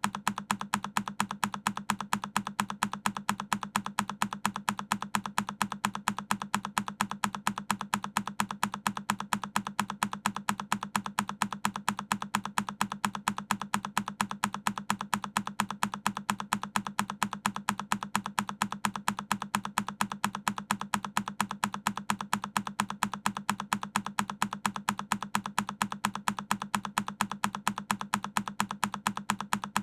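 A single key press on a Keychron K10 mechanical keyboard, the same recorded click looped over and over, evenly spaced several times a second.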